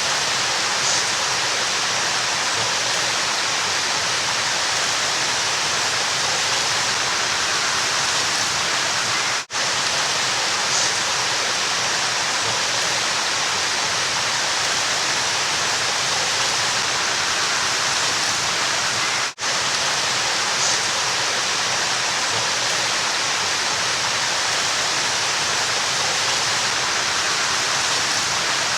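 River water rushing steadily in an even, hissing wash. It is broken twice by a split-second dropout, about ten seconds apart, where the recording loops.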